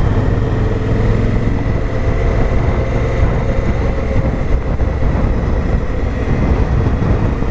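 Honda Africa Twin CRF1000L's parallel-twin engine running steadily at road speed, with wind rushing over the microphone.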